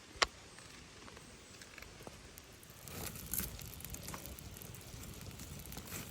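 A single sharp click just after the start, then from about three seconds in a campfire crackling with scattered small pops.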